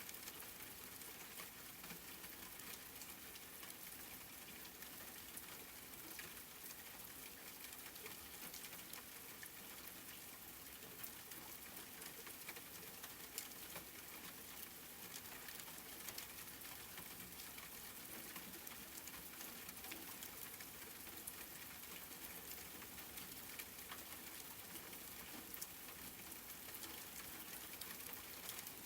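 Steady rain falling, an even hiss flecked with the fine ticks of individual drops hitting a surface.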